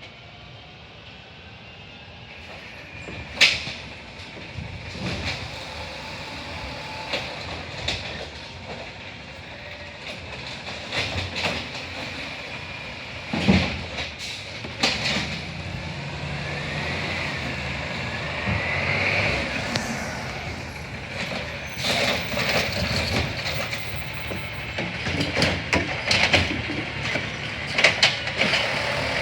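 CNG Autocar Xpeditor garbage truck with an Amrep body at work, getting louder as it nears. Several sharp metallic clanks and bangs ring out along the way. A whine rises and falls near the middle, and the engine's low running grows from about halfway on.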